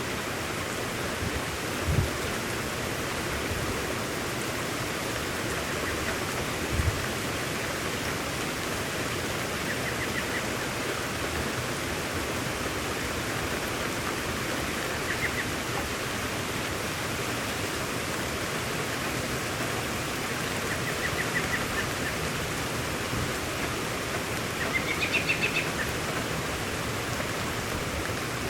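Steady rain hiss, with short trilled bird chirps several times, the longest near the end, and two brief low thumps in the first few seconds.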